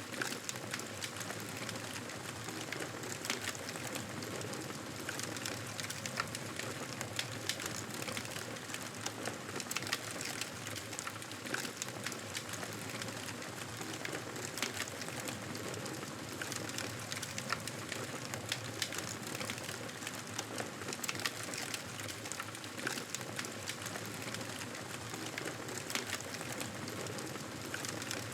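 Fireplace crackling: a steady hiss with frequent small, sharp crackles and pops scattered throughout.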